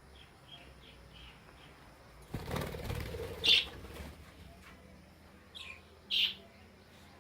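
Budgerigars in flight: a rush of wing flapping in the middle, with short high chirps. There is a run of faint quick chirps in the first second, a loud chirp during the flapping, and two more sharp chirps near the end.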